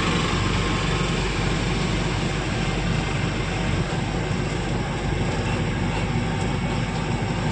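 Truck engine running steadily, heard from inside the cab with a constant low drone and road or engine noise.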